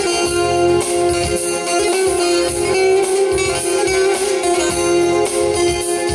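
Instrumental Turkish folk music passage led by plucked string instruments, playing steadily without singing.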